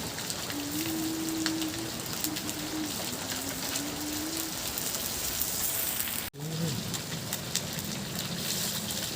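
Fish frying in hot oil: a steady crackling sizzle. It breaks off for an instant just after six seconds.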